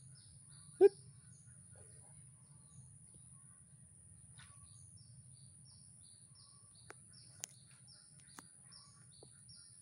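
Outdoor bird chirping: a bird repeats short, falling chirps in quick succession over a steady high whine. One short, loud plop about a second in, and a few faint clicks near the end.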